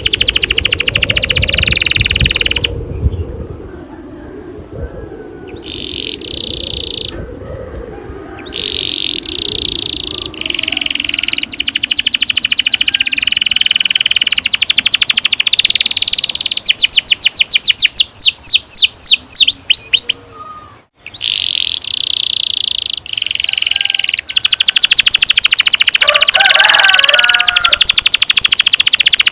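Domestic canary singing long rolling trills: fast runs of repeated high notes in long phrases with short pauses between them. About two-thirds of the way through comes a run of quick falling sweeps.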